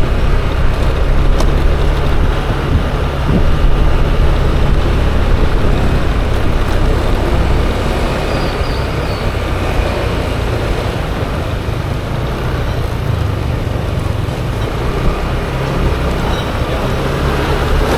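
Yamaha Aerox 155 scooter running along a road, its engine note mixed with wind and tyre noise; it eases off somewhat in the middle and picks up again near the end.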